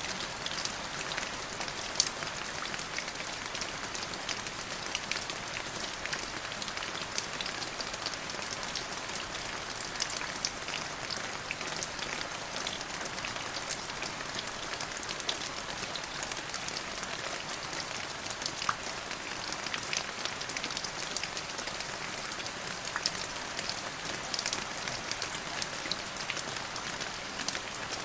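Steady rain falling, an even hiss dotted with many sharp individual drop hits.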